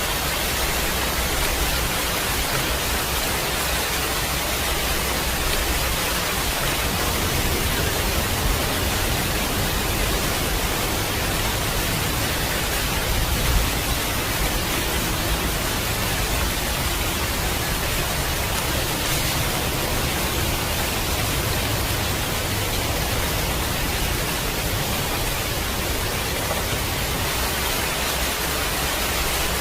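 Steady heavy rain, an even hiss. Under it runs a low rumble of distant thunder that swells around the middle.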